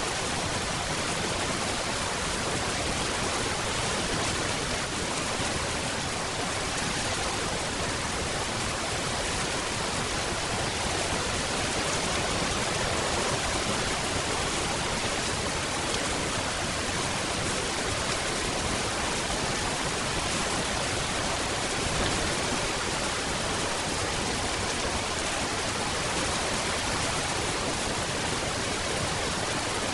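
Steady rain falling, a dense even hiss with no distinct drops or thunder.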